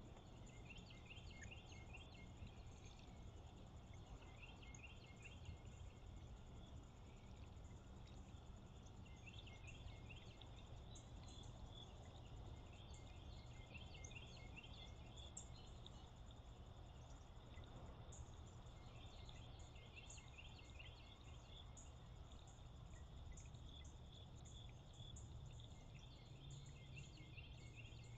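A songbird singing faint phrases of quick chirping notes, repeated every few seconds in the pre-dawn chorus. Faint high ticking and a steady low hum run underneath.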